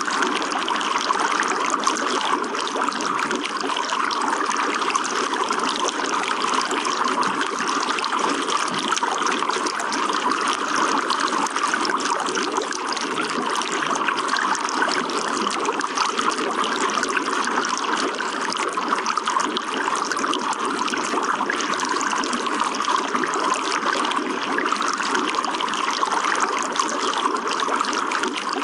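Running water trickling steadily in an even, unbroken stream.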